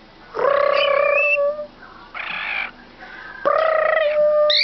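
Pet bird calling: two long held calls, each about a second long, the second about three seconds after the first, with a short rasp between them.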